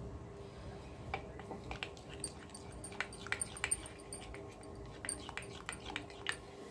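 Spoon clicking and scraping against a mixing bowl as a batter is stirred: a string of light, irregular clicks.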